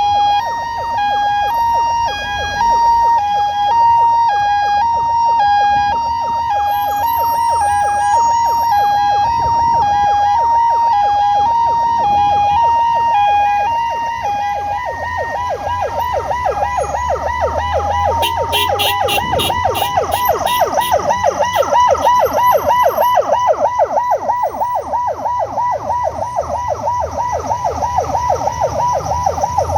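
Ambulance siren sounding loud and close, first as a two-tone hi-lo alternation, then switching about halfway through to a fast yelp of rapidly repeated rising sweeps, over the low rumble of vehicle engines in stalled traffic.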